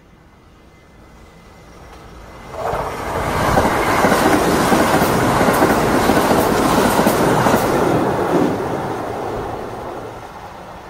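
Electric express train passing close by at speed, its wheels clattering over the rails. It builds up, rises sharply about two and a half seconds in, stays loud for about five seconds, then fades as it draws away.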